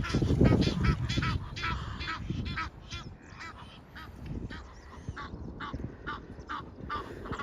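Geese honking: many short calls in quick succession, loudest in the first two seconds or so, with a low rumble underneath at the start.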